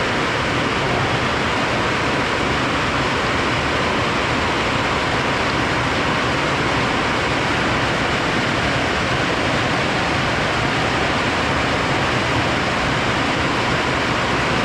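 Steady rain falling: an even hiss with no breaks or rhythm.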